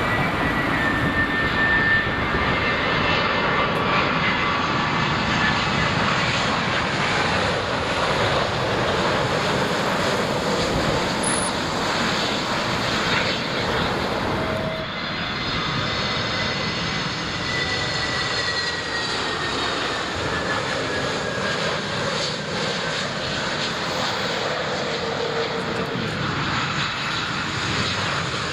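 Jet airliner engines running, a loud, steady rush with high whining tones that slowly fall in pitch through the second half.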